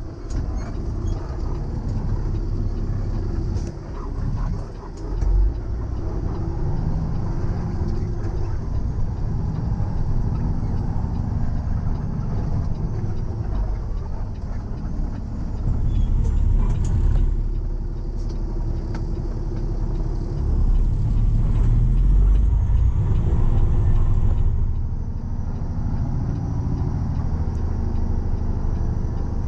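Heavy tow truck's engine running as it drives and manoeuvres, growing louder twice in the second half.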